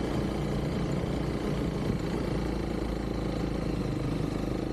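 Honda CRF300L's single-cylinder engine running steadily at an even pitch.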